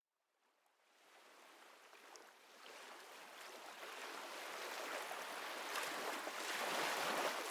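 Ocean waves and rushing water, a steady noise that fades in from silence and grows louder.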